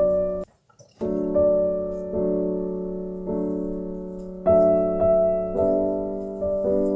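Background piano music: slow, gently struck notes and chords that fade after each stroke, with a short break of about half a second near the start.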